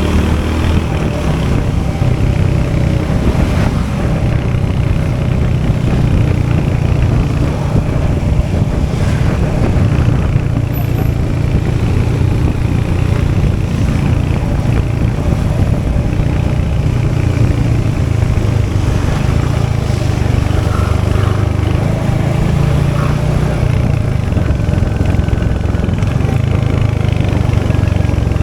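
Royal Enfield Hunter 350's 349cc single-cylinder J-series engine and exhaust running steadily, a deep low note that holds an even pace without clear revs.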